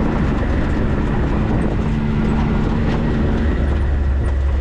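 4x4 vehicle driving slowly along an off-road trail: a steady engine drone with tyre and chassis rumble, the low rumble growing louder about three and a half seconds in.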